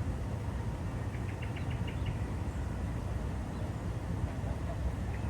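A small bird singing a quick run of short, high, evenly repeated notes about a second in, over a steady low rumble.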